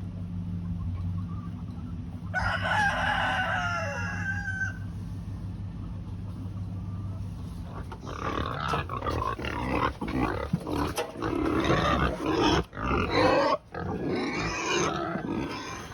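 A rooster crows once, a call of about two seconds falling in pitch, over a steady low hum that fades out about halfway. Then pigs grunt and squeal for most of the second half, the loudest part, in choppy strokes.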